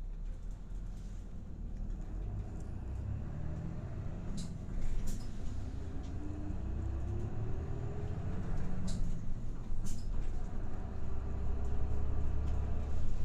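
Route bus running, its engine rumbling, with a whine that rises in pitch as the bus picks up speed, twice. A few sharp rattles or clicks come through from time to time.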